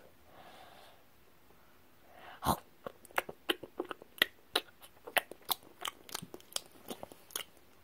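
A person chewing close to the microphone: near quiet at first, a bite about two and a half seconds in, then a string of short clicking chews, about three a second.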